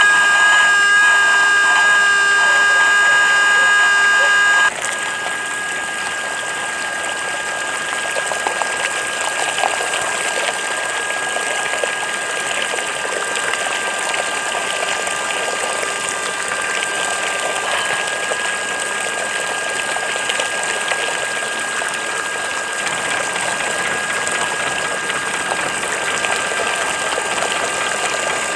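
A small DC-motor mini water pump whining with several steady high tones. About five seconds in it drops abruptly to a quieter steady hum, with water gushing through the pump.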